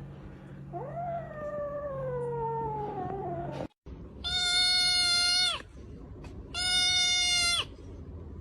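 A cat meowing. One long, drawn-out yowl rises and then slowly falls in pitch. After a sudden cut there are two long, steady, high meows about two seconds apart.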